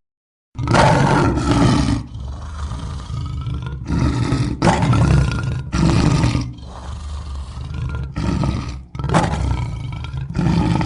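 African lion roaring: a run of loud, deep roars with short breaks between them, starting after a brief silence near the start.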